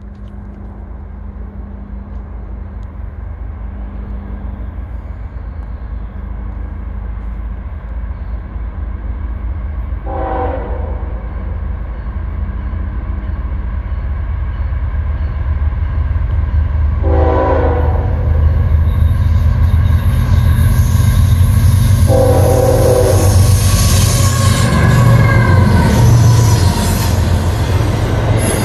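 A Norfolk Southern diesel freight locomotive approaching, its deep engine rumble growing steadily louder. The horn sounds three times, several seconds apart, the last blast the longest. Near the end the train passes close, loud with the rumble and rail noise of the wheels.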